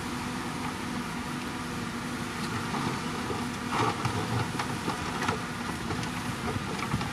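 Heavy earthmoving machine's diesel engine running steadily, with a few metallic clanks and a louder patch about four seconds in.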